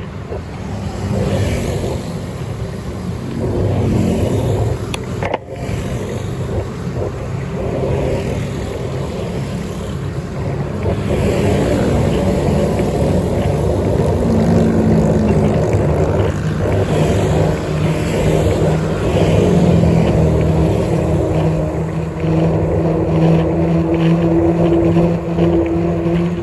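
Vehicle engine running with road noise during a ride, its tone holding steady and a little higher over the last few seconds.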